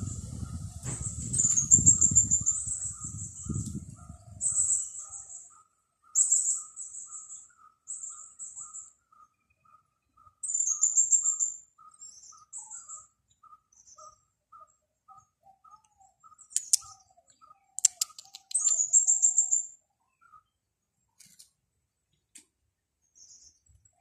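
Songbirds chirping in short, high, trilled phrases, with a lower note repeated steadily about twice a second through most of it. Wind rumbles on the microphone for the first few seconds, then dies away.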